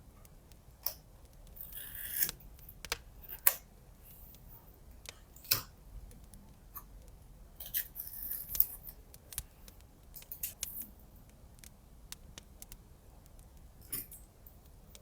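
Scissors cutting paper in a few short snips, with scattered sharp clicks and handling taps in between.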